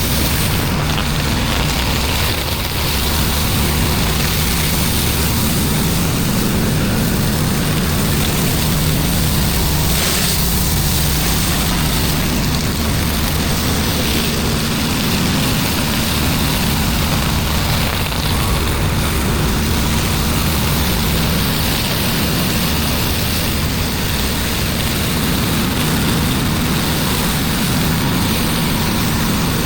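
Engine-driven pressure washer running steadily at a constant pitch under an even hiss of spray.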